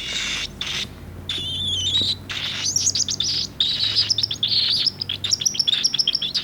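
Cockatiel chick's food-begging calls: a raspy hissing call and a wavering whistle, then rapid, repeated high chirps from a little under three seconds in.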